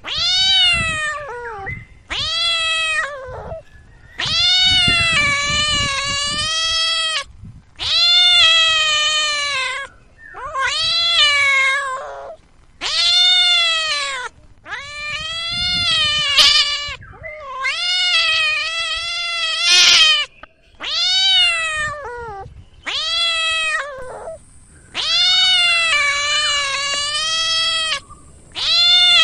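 A cat meowing over and over: about a dozen long, drawn-out meows, each rising and then falling in pitch, with short pauses between them.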